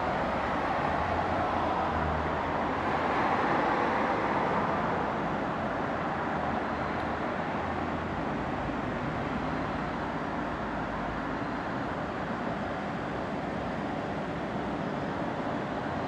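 Steady road traffic noise from vehicles on a highway, with one passing louder about three to four seconds in.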